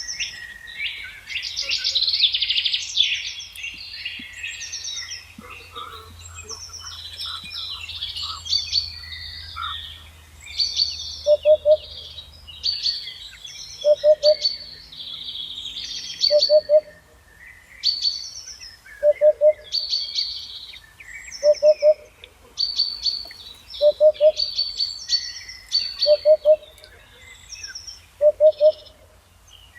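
Several songbirds singing together in a dense chorus of high chirps and trills. From about a third of the way in, a lower two-note call repeats about every two and a half seconds and is the loudest sound.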